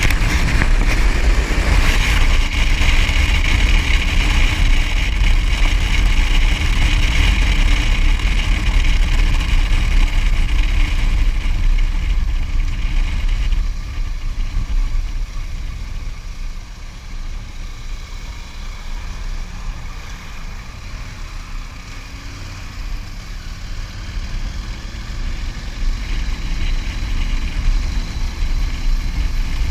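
A motor vehicle running while on the move, with heavy low rumble from road and wind. It eases off about halfway through, then the engine note climbs again as it speeds back up near the end.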